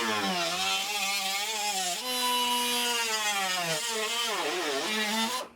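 Electric angle grinder with a cut-off disc cutting sheet steel, its motor pitch sagging and recovering as the disc bites and dipping deepest near the end before it stops.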